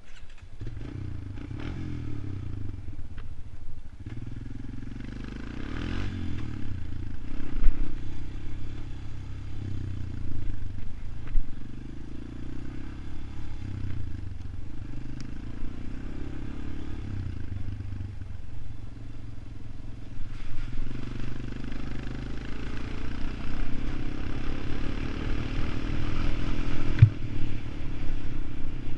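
ATV engine running while being ridden, its pitch and loudness rising and falling with the throttle, with some rattling.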